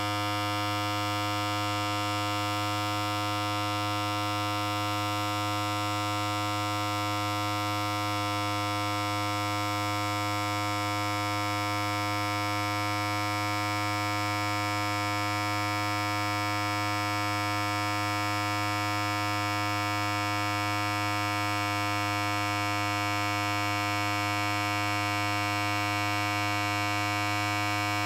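Electric hair clipper running continuously: a steady, unchanging buzz with a strong low hum.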